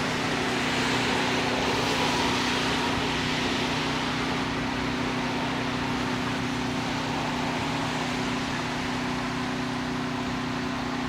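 Steady mechanical hum with a few fixed low tones under an even hiss, unchanging throughout.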